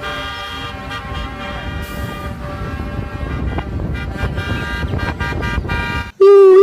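A motor vehicle engine running with a steady rumble and hum. About six seconds in, a loud, steady car horn honk begins.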